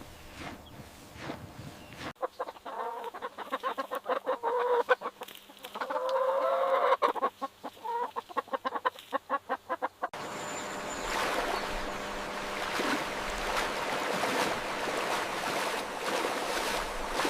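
Chickens clucking in quick runs of short calls for about eight seconds. A hard cut a couple of seconds in starts them, and a hard cut near the end stops them, giving way to a steady rushing noise.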